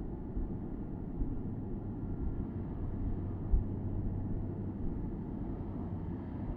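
Porsche Boxster S flat-six engine running steadily under road and tyre rumble, heard from the open-top cabin, with one brief thump about three and a half seconds in.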